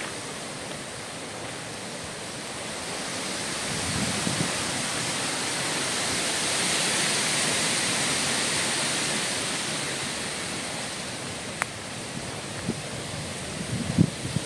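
Wind gusting through the forest trees: a steady hiss that swells to a peak about halfway through and dies away again. Soft thuds of footsteps on the forest floor come near the end, along with one sharp click.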